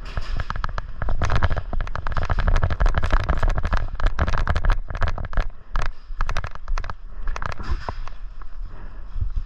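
Airsoft guns firing in dense, irregular rapid strings of sharp shots, as from several guns at once, over a low rumble; the firing thins briefly about six seconds in.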